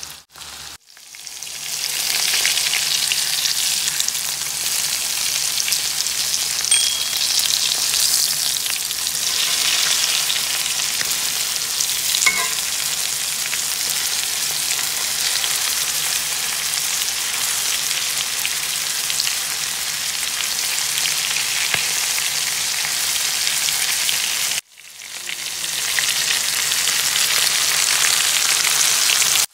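Breaded chicken frying in butter and olive oil in a cast-iron skillet: a steady, even sizzle. The sound cuts out briefly about a second in and again near the end.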